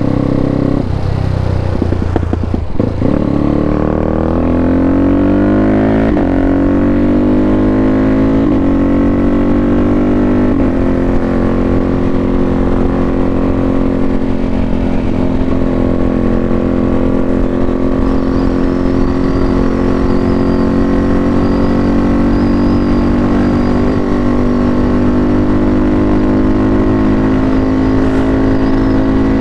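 KTM RC390's single-cylinder engine through a full-system Akrapovic exhaust, pulling away and climbing in pitch through a few upshifts, then running at a steady speed for the rest of the stretch.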